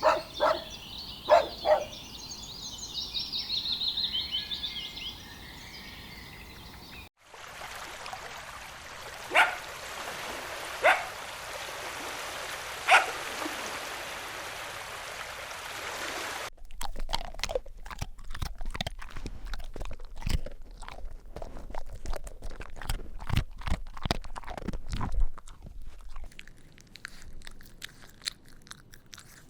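Dogs barking in short single barks: a few close together at the start with birds singing behind them, then three spaced barks a couple of seconds apart. The last third is a dense crackle of crunching and rustling with no barks.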